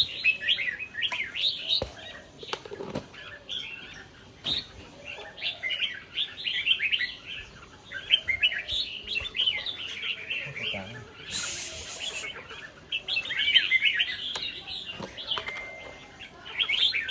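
Red-whiskered bulbuls chirping and singing in quick, overlapping phrases with short pauses between bouts. A brief hiss of noise cuts in about two-thirds of the way through.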